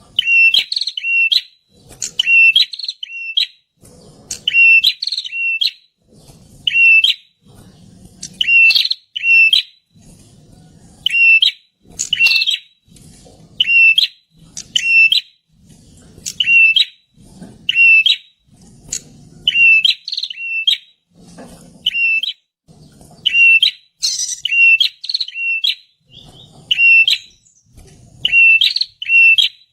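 Prinia (perenjak) calling loudly, short phrases of sharp high chirps repeated about once a second without a break, with a faint low thud under each phrase.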